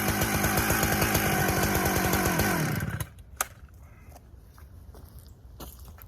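Husqvarna 395XP two-stroke chainsaw running steadily, then winding down and stopping about three seconds in, followed by a few faint knocks. Its chain is dulled from hitting something and is not grabbing the wood.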